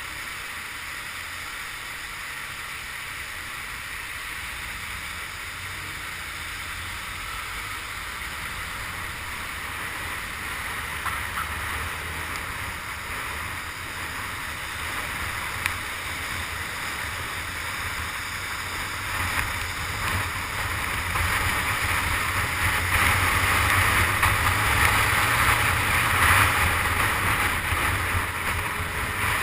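Wind and rain noise on the helmet camera while riding a Honda CG 150 Titan through heavy rain, with the low rumble of its single-cylinder engine underneath. It grows louder from about twenty seconds in.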